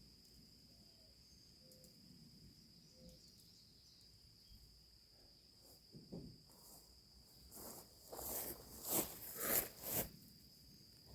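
Crickets chirping in a steady high drone. In the last few seconds come several short scraping, handling noises.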